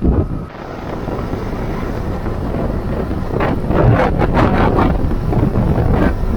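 Wind buffeting the microphone of a motor scooter on the move, over the low rumble of its engine and tyres on the road, with a few rougher gusts about halfway through.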